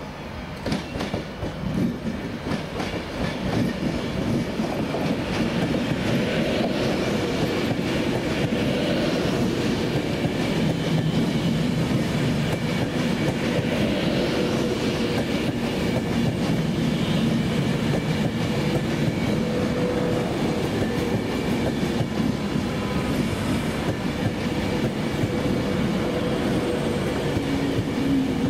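A train running through the station, its wheels clicking over the rail joints. It grows louder over the first few seconds and then holds steady.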